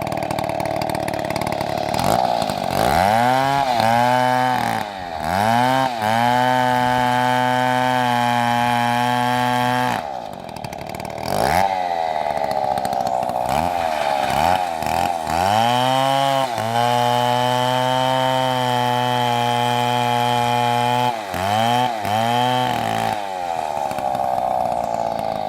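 Two-stroke chainsaw revved up and down several times, then held at high revs for about four seconds. It drops back and the pattern repeats: more quick revs, a second long hold, and a few final blips.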